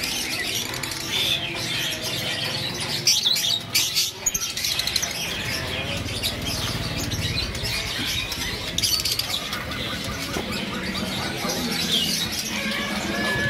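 Many caged birds chirping and tweeting at once, with a steady low background rumble and a few sharp clacks about three seconds in.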